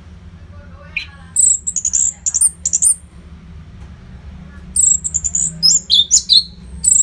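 Orange-headed thrush singing: two runs of rapid, high-pitched whistled notes, the first about a second and a half in, the second from about five seconds to the end, over a steady low hum.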